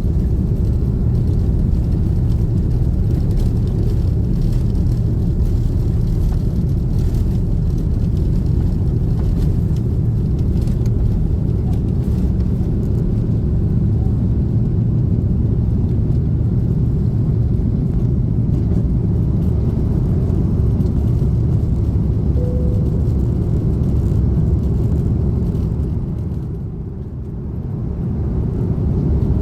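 Steady low rumble inside an Airbus A330-300 passenger cabin: engine and airflow noise, dipping briefly in level near the end before coming back up.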